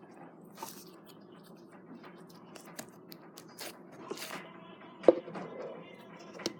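Slime being squished and worked by hand, giving small sticky clicks and crackles, with one sharper pop about five seconds in.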